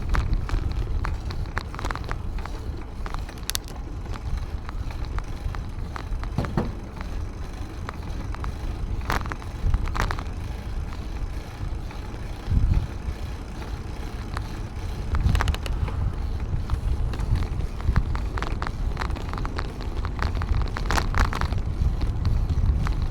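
A bicycle being ridden: a steady low rumble of wind and road noise on the microphone, with scattered clicks and rattles from the bike.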